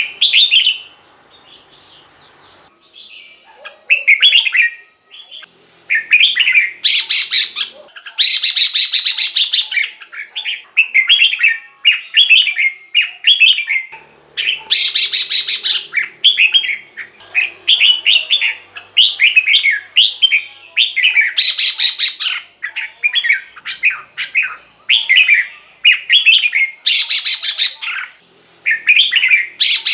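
Red-whiskered bulbul singing: short, quick whistled phrases repeated again and again, with a louder, harsher call about every six seconds.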